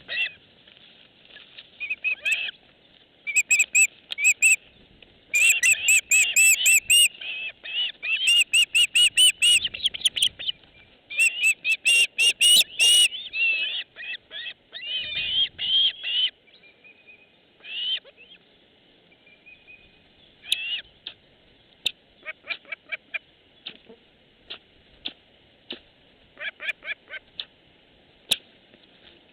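A bird calling in rapid runs of high, repeated chirps, in several bursts over the first half; after that the calls grow sparse, mixed with short sharp clicks.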